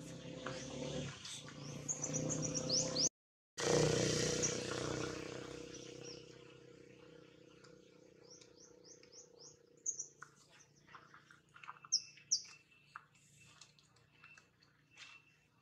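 Birds chirping in quick runs of short falling notes, over a noisy background that cuts out for a moment about three seconds in. Later come scattered soft clicks and a thin, steady high tone.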